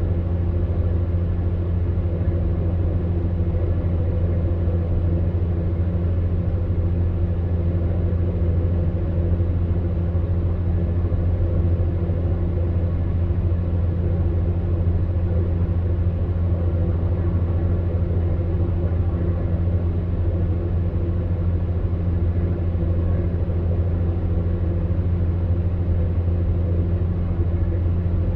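Electric fan heater running: a steady low hum under an even rush of air, unchanging throughout.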